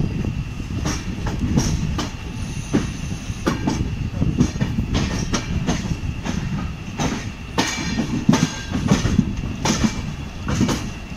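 Passenger train coach rolling along with a steady low rumble and irregular wheel clacks over rail joints and points, under a thin steady squeal from the wheels.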